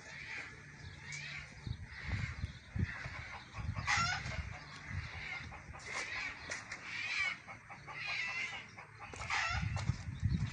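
Chickens clucking and squawking, a string of short calls that fall in pitch, several seconds apart.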